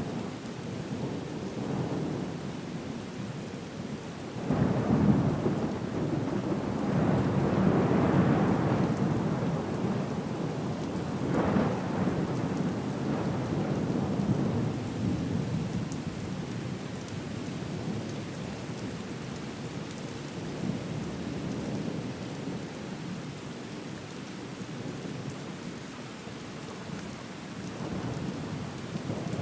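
Thunderstorm: steady rain under rolling thunder. A long low rumble swells in about four seconds in and rolls on for several seconds, another peaks near the middle, and a third builds at the end.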